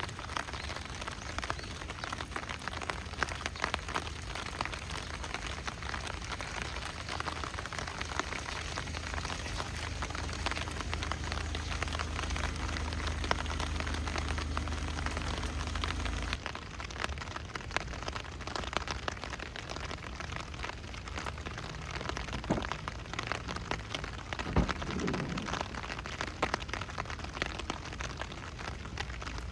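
Heavy rain falling, a dense hiss of countless drop impacts with a low rumble underneath that stops about halfway through.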